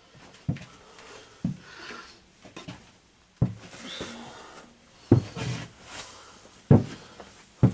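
Hardware and tools being handled: half a dozen irregular knocks and clunks with rattling and rubbing in between.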